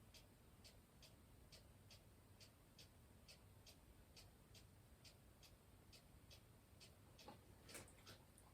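Near silence with faint, regular ticking, about three ticks a second, and a soft rustle about seven to eight seconds in.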